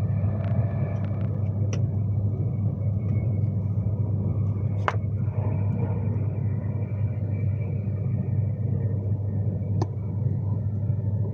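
Steady rumble of an Avanti West Coast Class 390 Pendolino electric train running at speed, heard from inside the passenger saloon, with a couple of short sharp clicks about halfway through and near the end.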